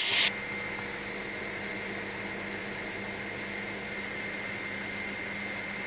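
Steady helicopter cabin drone in flight, an even noise with a constant low hum and a thin high whine.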